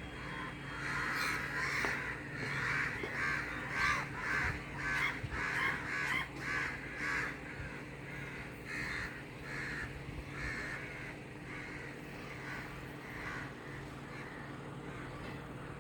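Crows cawing, many calls in quick succession that thin out and grow fainter after about ten seconds, over a steady low hum.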